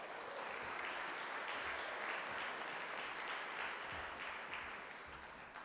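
Audience applauding in a large room, swelling in the first second and tapering off near the end.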